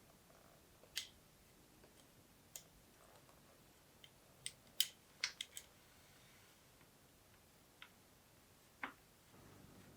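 Scattered light clicks and taps of bicycle parts and tools being handled during assembly: about ten short sharp ticks, a quick cluster of them about halfway through.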